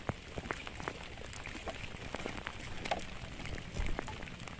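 Rain falling, with many scattered drops ticking irregularly on a nearby surface.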